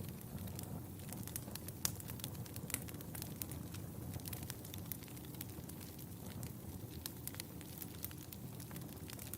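Wood fire crackling in a fireplace: irregular sharp pops and snaps over a steady low rumble and hiss of the flames, with one louder pop about two seconds in.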